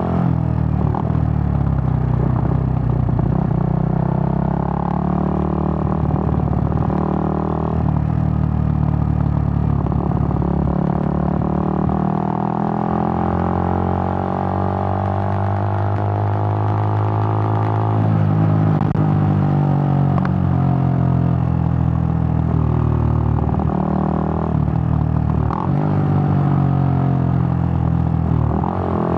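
Suzuki GN125's single-cylinder four-stroke engine running while the bike is ridden, its note changing with the throttle: it climbs steadily for several seconds, drops sharply about eighteen seconds in, and shifts again near the end.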